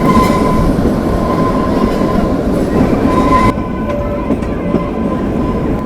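Kalka–Shimla narrow-gauge train running, heard from aboard: steady rumble and clatter with a thin steady whine over it. The upper hiss drops away suddenly about three and a half seconds in.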